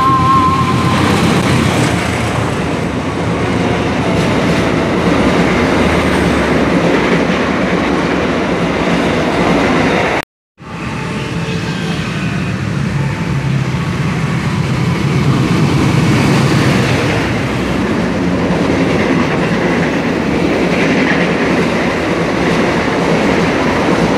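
Diesel-electric locomotive and passenger coaches of a long-distance train running through a station: a steady loud rumble with the rattle and clatter of wheels over the rails, after the tail of a horn blast in the first second. The sound breaks off for a moment about ten seconds in, then the coaches clatter past again.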